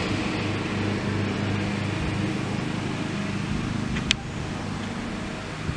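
Car engine running close by, a steady low hum, with one sharp click about four seconds in.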